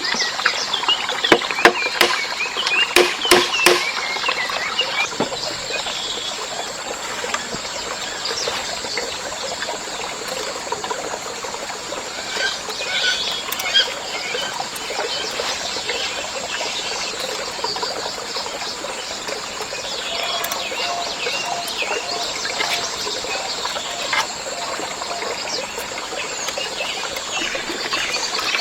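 Tropical forest ambience: many short bird chirps over a steady hiss, with a cluster of sharp knocks in the first few seconds.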